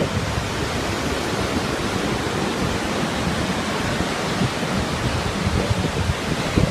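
Steady rushing roar of Montmorency Falls, a large waterfall pouring heavily, with no break or change.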